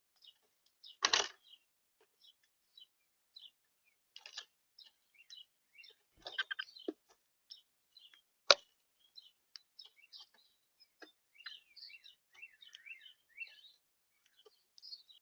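Small birds chirping and twittering in many short high notes. A few knocks and rustles break in: one about a second in, one around six seconds in, and the loudest, a sharp click, a little after eight seconds.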